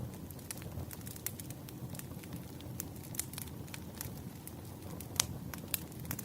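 Wood fire crackling: irregular sharp pops and snaps over the steady low rumble of burning logs, with the loudest pop about five seconds in.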